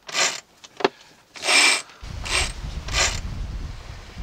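Sheet line hauled by hand around a sailboat's cockpit winch in four short rasping pulls, the winch ratcheting and the rope rubbing on the drum, with a brief squeak after the first pull. A steady low rumble of wind on the microphone comes in about halfway through.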